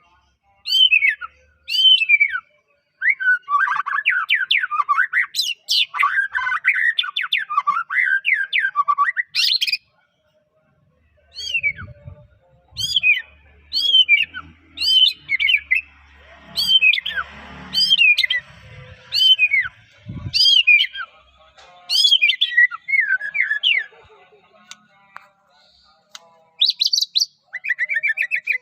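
White-rumped shama (murai batu) singing: dense runs of quick, varied chirps and whistles, then after a short pause a series of loud down-slurred whistles about one a second, ending in a fast run of notes.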